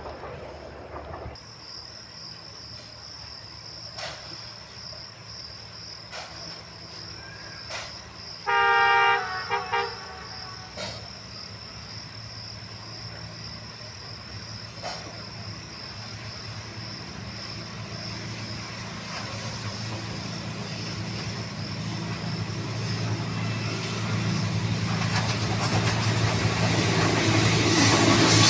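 Pakistan Railways diesel-electric locomotive approaching. About nine seconds in it sounds its horn in one blast of about a second, then two short toots. Its engine's low drone grows steadily louder as it nears.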